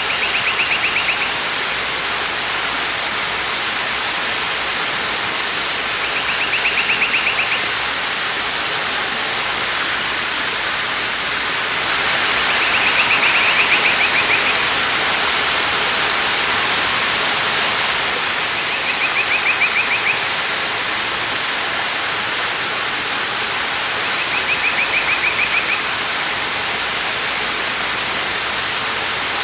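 Waterfall rushing steadily, swelling slightly about halfway through. Over it, a short high trill repeats five times, about every six seconds.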